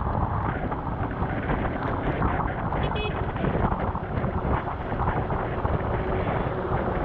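Honda CBR250R motorcycle under way at speed in the rain: wind rushing over the action-camera microphone, with engine and wet-road noise beneath. A brief high tone sounds about three seconds in.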